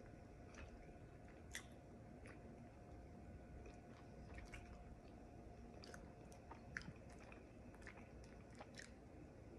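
Faint chewing of a Quest protein bar with the mouth closed: scattered small clicks of teeth and food over low room hiss.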